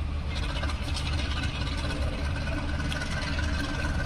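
Diesel locomotive engine running steadily with a low hum under a hiss of noise.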